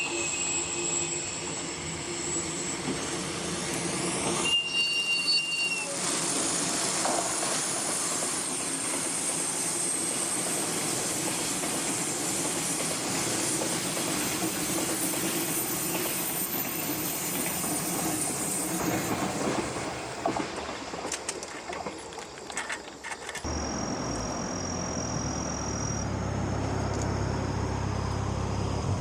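Freight train hauled by a DD51 diesel locomotive passing close by: a long run of wagons rumbling and clattering over the rail joints, dying away about twenty seconds in. Near the end a steady low engine hum takes over.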